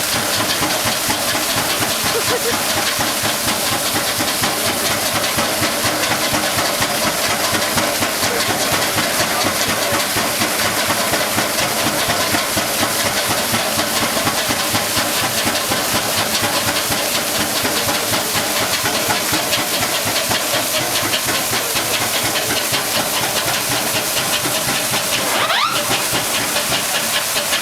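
Shand Mason steam fire engines working under steam: a steady, loud hiss of steam and water with fast, regular beats running through it. A short rising tone sounds near the end.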